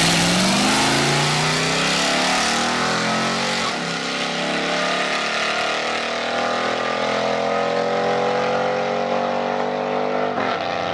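A drag-racing vehicle's engine under full acceleration down the strip, its pitch rising steadily for about ten seconds.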